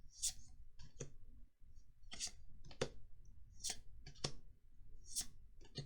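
Magic: The Gathering cards being handled one at a time. Each card gives a short papery swish and then a light click, repeating about every one and a half seconds, four times.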